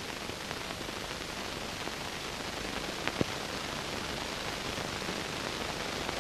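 Steady hiss of an old film soundtrack, with a faint click about three seconds in.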